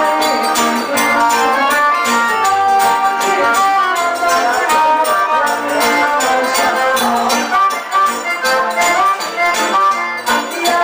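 Live forró band playing: an accordion melody of held notes over guitar and a steady, driving beat of zabumba drum and hand percussion.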